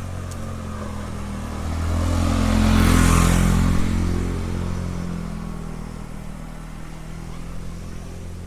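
A motor vehicle passes close by, its engine and rush swelling to a peak about three seconds in and then fading away, over a steady low engine hum.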